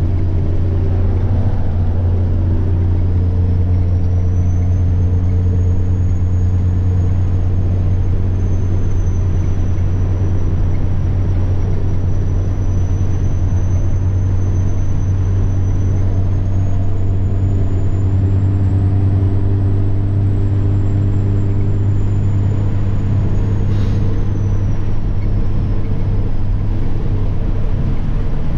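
Semi truck's diesel engine running at steady cruise, heard from the cab: a deep steady drone with a high turbo whine over it that slowly rises and falls in pitch. A single short click near the end.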